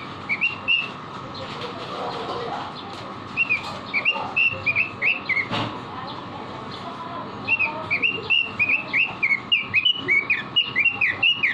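Red-billed leiothrix (Pekin robin) singing: three runs of quick whistled notes, the last and longest filling the second half, over a steady background hum.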